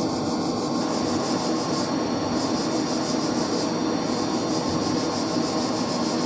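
Steady machine noise: a constant loud whir and hum that does not change.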